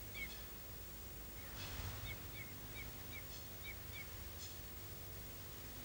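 A small bird calling: a run of short, evenly spaced chirps, over a faint steady hum and hiss.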